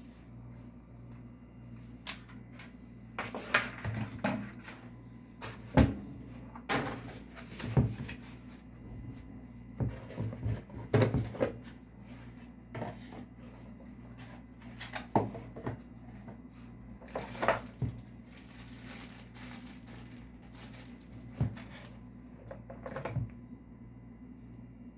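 Hands handling a packaged gadget and its box: irregular knocks, clicks and short rustles, most of them in the first two-thirds, over a steady low hum.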